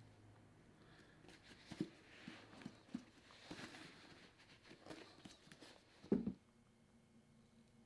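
Quiet handling noises: scattered soft taps and knocks, a brief rubbing hiss near the middle, and one louder knock about six seconds in.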